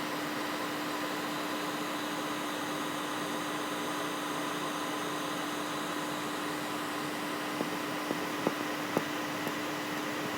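A steady hum over an even hiss, with a few short clicks near the end.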